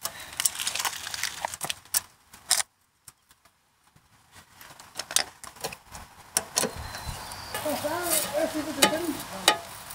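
Small metal clicks and scraping as mounting screws are handled and threaded through a license plate into a tow-hook plate frame. There is a short quiet pause after the first few seconds.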